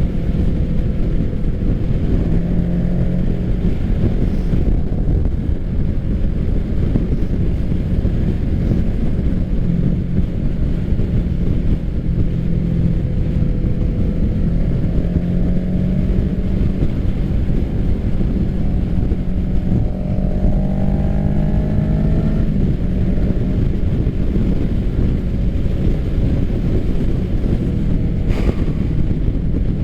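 Kawasaki Ninja 650's parallel-twin engine running through an aftermarket M4 full exhaust while riding at steady speed, with wind rushing over the microphone. About two-thirds of the way in, the engine note climbs under acceleration and then drops sharply, as at a gear change.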